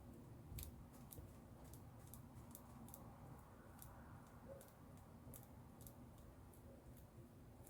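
Near silence with faint, scattered light ticks and taps at irregular intervals, from small hand crafting on paper at a table.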